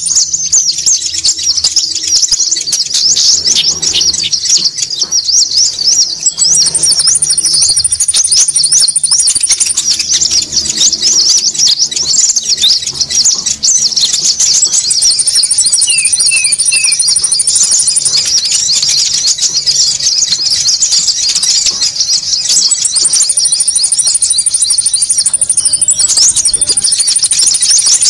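A dense, unbroken chatter of high-pitched chirps from many small birds, with a long, even, very high trill that recurs every several seconds. This is a bird-lure (pikat) recording of konin birds calling noisily.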